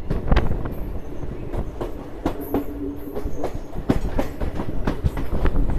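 Indian Railways passenger train running, its coach wheels clattering over the rail joints: a steady low rumble with many irregular knocks, and a brief steady whine about two seconds in.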